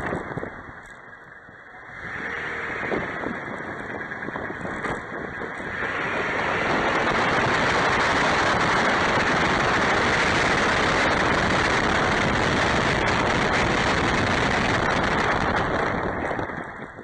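Engine and road noise of a Toyota truck on the move: quiet at first, building over a few seconds as it pulls away, then a steady loud rush that drops off near the end.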